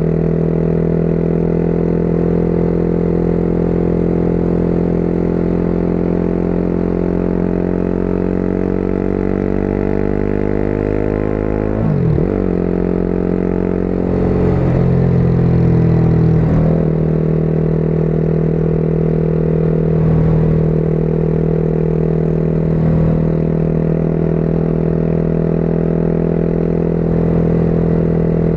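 Motorcycle engine running at road speed. The engine note sinks slowly, then jumps in pitch sharply about twelve seconds in and again a couple of times a few seconds later, as with gear changes, before settling into a steady note.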